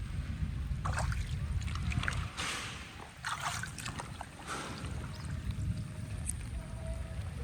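Water splashing and sloshing in several short bursts, over a steady low rumble.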